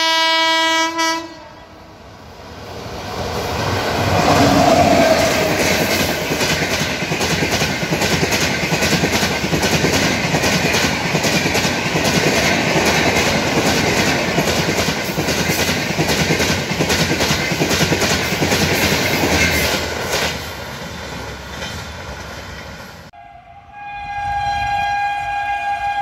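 An Indian Railways electric locomotive horn sounds briefly at the start. Then a WAP-7-hauled Shatabdi Express passes at speed: a loud rush of wheels on rail with fast, regular clicks over rail joints, swelling and then fading away. After a sudden cut about 23 seconds in, a second locomotive's horn, from a WAP-4, sounds steadily.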